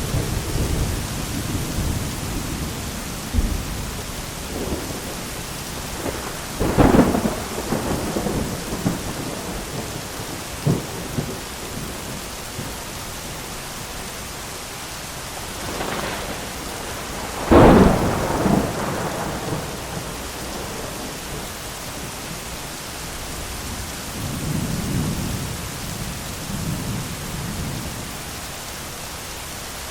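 Thunderstorm: steady heavy rain with rolling thunder. Two close lightning strikes crack sharply about a quarter and about halfway through, each trailing into a rumble, and there is lower distant rumbling near the end.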